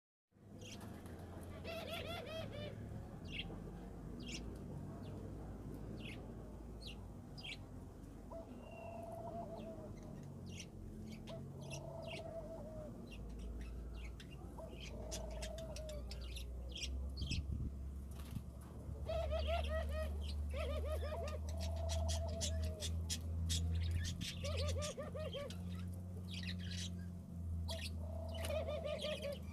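A parrot calling: repeated short, warbling calls of about a second each, mixed with many quick, sharp high chirps and clicks. A low steady hum runs underneath and grows louder about halfway through.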